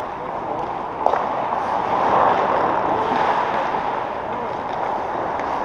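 Game sound in a sports arena: a steady wash of noise from play and the surroundings, with one sharp knock about a second in.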